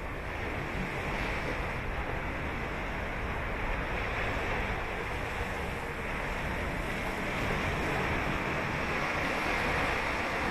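Ocean surf breaking and washing on a sandy beach: a continuous wash of waves that swells gently about a second in and again from about seven seconds in.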